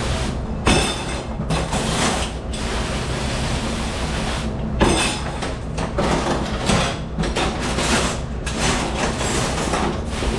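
Dish room noise: a steady machine rumble under irregular clattering and knocking of dishes and racks being handled.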